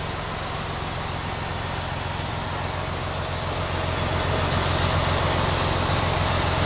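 Diesel truck engine idling with a steady, pulsing low rumble that grows slightly louder about four seconds in.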